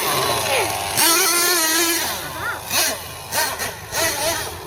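Nitro engine of a radio-controlled monster truck revving up and down, its pitch sweeping, holding one steady high note for about a second, then short rising and falling revs.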